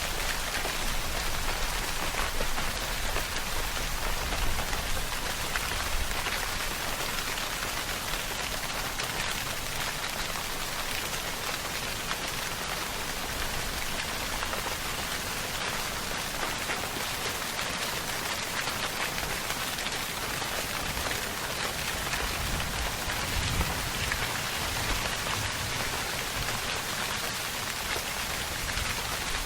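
Steady, unbroken rainfall: many drops falling on a surface.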